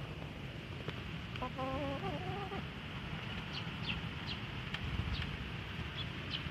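A chicken giving one wavering, drawn-out call of about a second, over a steady low rumble of strong wind on the microphone. Several faint, short, high chirps follow in the second half.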